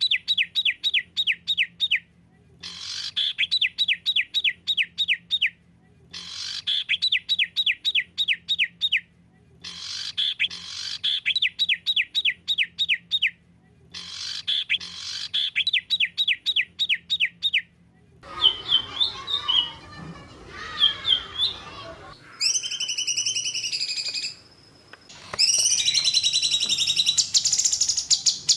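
Songbird masteran recording: a fast trill of sharp descending notes, the same phrase repeated five times with short pauses between. In the last third it changes to varied chirps and whistles, ending in a dense buzzy trill.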